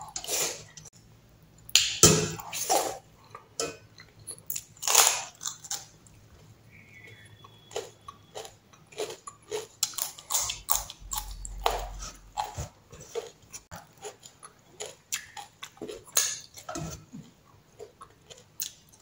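A person chewing and biting food: mouthfuls of rice and raw carrot slices being chewed, with many sharp crunches. The loudest crunches come about two and five seconds in, and a quick run of smaller ones follows in the second half.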